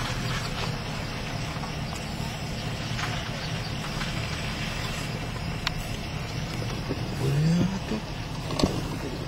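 Vehicle engine idling steadily, heard from inside the cab. About seven seconds in there is a brief rising tone, and a sharp click follows shortly after.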